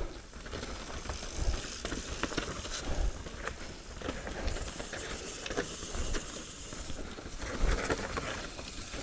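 Mountain bike moving over a rocky, rooty trail: tyre noise on dirt and rock, with irregular rattles and knocks from the bike over the bumps.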